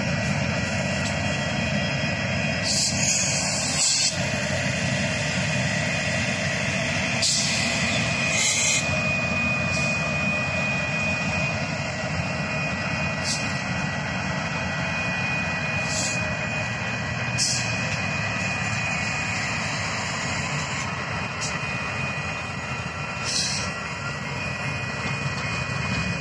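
Union Pacific manifest freight train rolling through a grade crossing: a steady rumble of diesel locomotives and then freight cars on the rails. A steady high tone runs through it, and there are about ten scattered sharp clanks.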